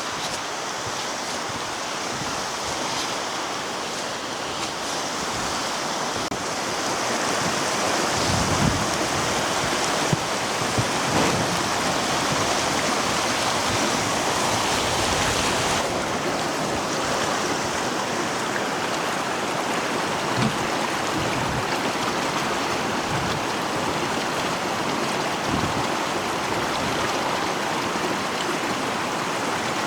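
Strong snowstorm wind blowing without a break, growing louder a few seconds in, with a few gusts buffeting the microphone.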